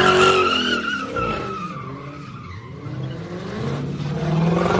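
Car tyres squealing in a skid, a high wavering screech that starts suddenly and loud, then slowly falls in pitch and fades over the first second or two.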